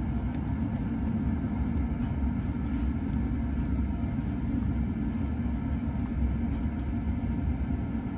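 Steady low rumble of a furnace running, with a few faint ticks.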